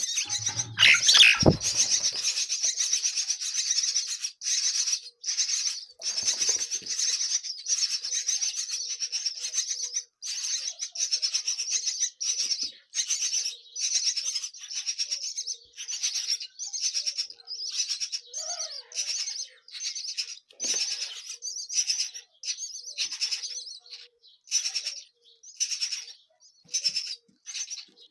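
Nestling birds begging with shrill, rapid chirping, in short bursts that stop and start again every second or so. There is a brief thump about a second and a half in.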